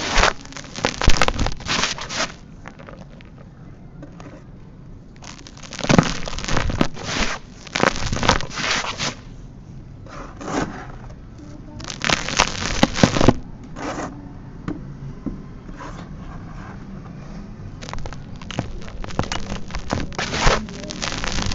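Dry, dusty sand-cement chunks crumbling and breaking apart, in clusters of crackling and grainy scraping with short quieter pauses between.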